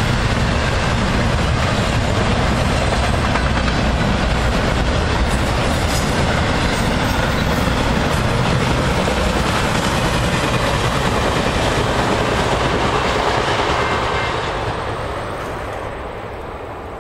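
The last cars of a BNSF intermodal freight train, flatcars carrying highway trailers, rolling past with a steady noise of wheels on the rails. The noise fades away from about 14 seconds in as the end of the train goes by.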